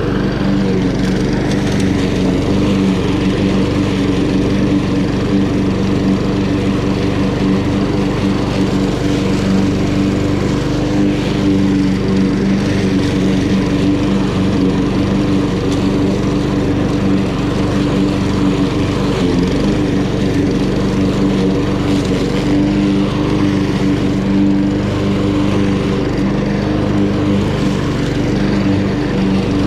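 Honda HRN216 walk-behind lawn mower's GCV170 engine running at a steady speed while cutting grass.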